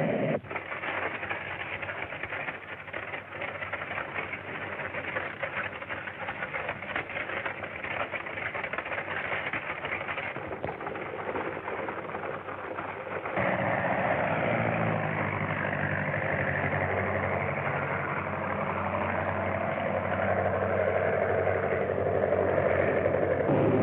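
A train running at speed, a dense rattling rumble with many clicks of wheels on rails. About halfway through, a steady engine drone joins it and the sound grows louder. The sound is cut off above about 4 kHz, as on an old film soundtrack.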